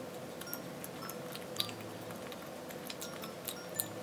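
Close-up mouth sounds of a person chewing a soft steamed corn bun: a quick run of small sticky, wet clicks and smacks, a couple of them louder, over a steady faint hum.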